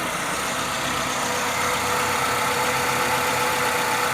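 Renault Sandero engine idling with steady whining tones over the running. The mechanic traces this to a bearing at the clutch, and says the noise drops when the clutch pedal is pressed.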